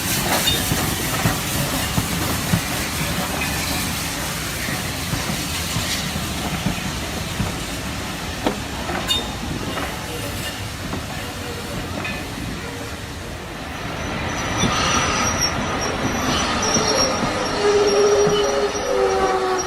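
Steam train running, a steady hiss and rumble with scattered clicks of wheels over rail joints. About two-thirds of the way through, several high, steady squeals of wheels or brakes come in and grow louder.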